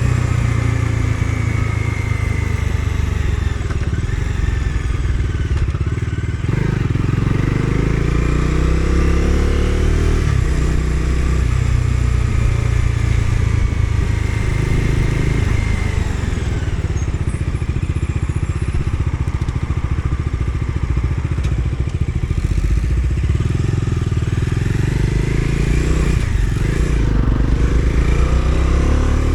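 Bajaj Dominar 250 single-cylinder engine under way, its pitch rising and falling several times as it accelerates and eases off, with wind and road noise.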